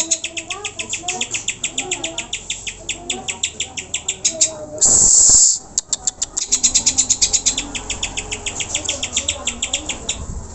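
Cucak hijau (green leafbird) chattering in a fast, even run of sharp, high repeated notes, several a second. About halfway through, a loud harsh rasp lasts about half a second before the rapid notes resume.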